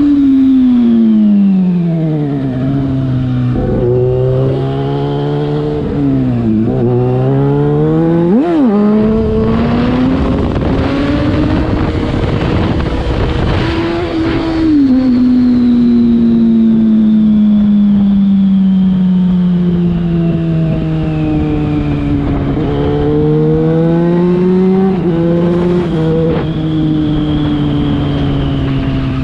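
Yamaha FZ6's inline-four engine through a LeoVince aftermarket exhaust while riding: the revs fall at first, rise and drop with gear changes, and there is a quick rev blip about eight seconds in. Then a long stretch of slowly falling revs, a climb again about three quarters through, and the engine easing off near the end.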